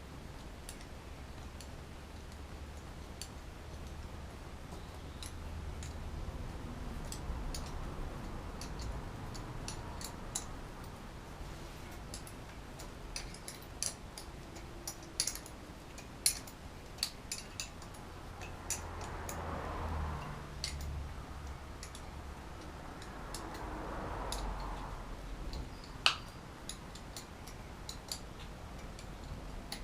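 Scattered sharp clicks and taps from hand work on engine parts, one louder knock near the end, over a low steady hum.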